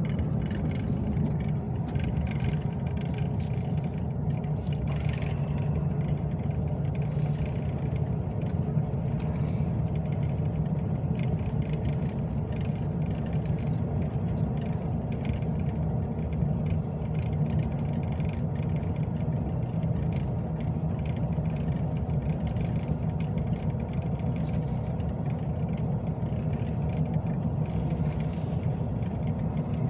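Steady engine and road rumble inside a moving truck's cab, with faint light rattles throughout.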